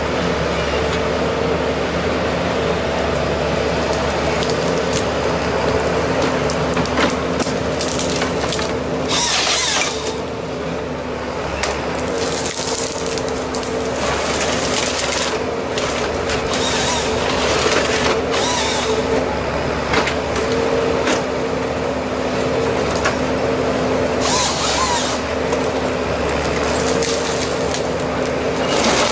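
Engine-driven wood-cutting machinery running steadily at one pitch, with short rushes of high hiss every several seconds as it works through wood.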